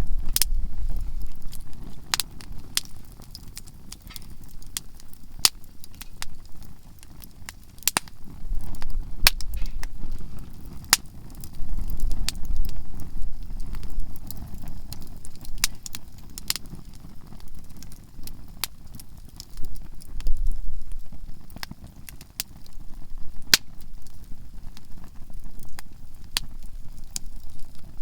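Softwood campfire crackling, with frequent sharp, irregular pops and snaps from the burning conifer logs, over a low rumble that swells and fades several times.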